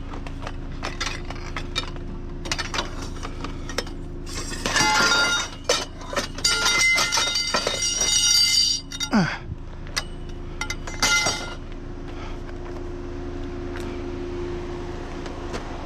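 Household scrap being handled and tossed in a junk pile: clattering and clinking with metallic ringing, densest between about four and nine seconds in, with another short clatter near eleven seconds, over a steady low hum.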